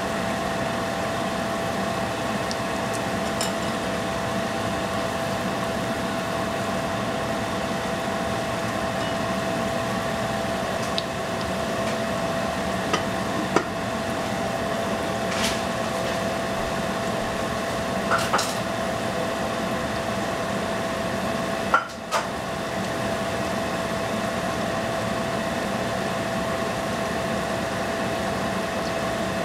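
Spring rolls frying in hot oil with a steady sizzle, over the constant hum of a running fan or motor. A few sharp clicks and pops stand out about halfway through.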